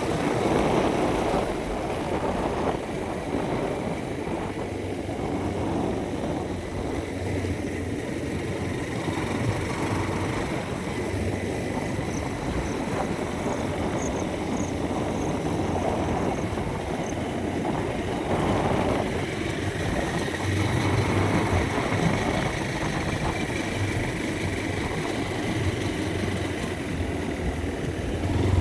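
A motor vehicle running steadily along a road, its engine hum mixed with road and wind noise.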